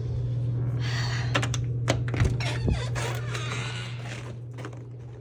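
Footsteps crunching in snow, with a few sharp knocks and clicks about two seconds in, over a steady low hum.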